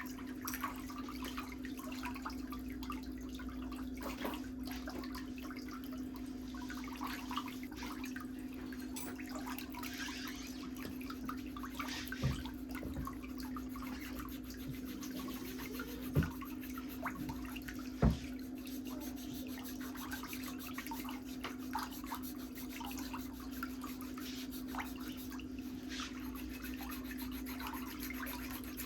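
Pedicure tools working on toenails: light, intermittent scraping and scratching, with three sharp clicks about twelve, sixteen and eighteen seconds in, over a steady low hum.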